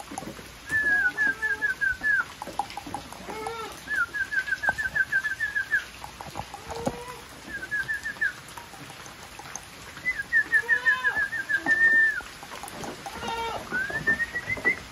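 A bird sings short, rapid trills of repeated whistled notes several times. Between the trills, Savanna goats give a few short bleats.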